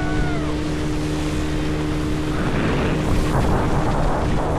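Motorboat engine running at a steady pitch while towing a banana boat. About halfway through, a loud rush of water spray and wind on the microphone swamps it.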